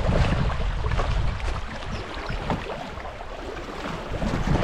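Water rushing and splashing around a kayak on a shallow creek, with wind buffeting the microphone; louder in the first second or so, then easing off.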